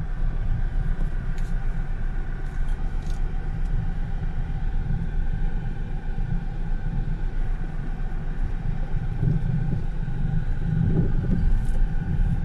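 Car on the move: a steady low rumble of engine and road noise with faint steady tones above it, getting a little louder near the end.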